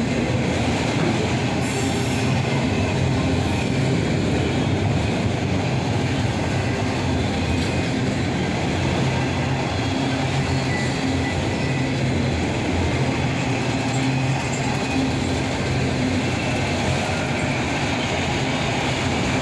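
Cars of a long freight train rolling past at steady speed: a continuous noise of steel wheels on the rails.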